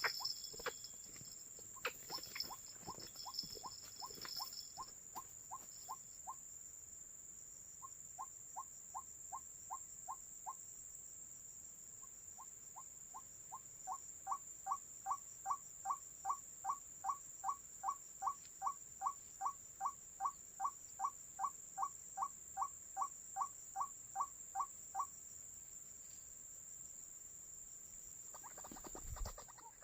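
White-breasted waterhen (ruak-ruak) calling: long series of short, rising notes, about three a second, in three runs. The last run, from about 12 to 25 seconds in, is the longest and loudest.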